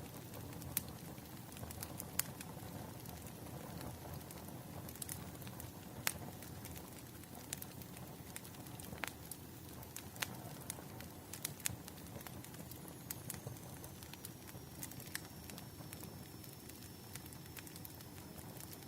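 Wood fire crackling: irregular sharp pops and snaps, a few louder than the rest, over a steady low rumbling hiss.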